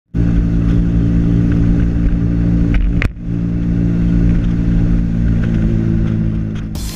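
Small underbone motorcycle (kapcai) engine running steadily at riding speed, with road and wind noise; a brief click and drop in level about three seconds in.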